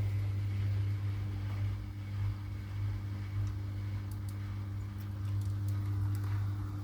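Washing machine running with a steady low hum, with a few faint light clicks in the second half.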